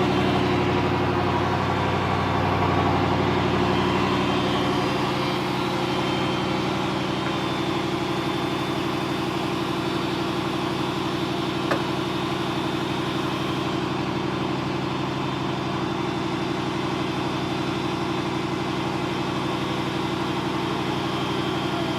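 1960 Ford Thunderbird's 352 V8 idling steadily, with a single short click near the middle.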